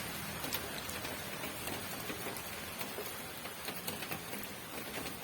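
Steady rain falling, with many individual drops heard as scattered, irregular ticks over an even hiss.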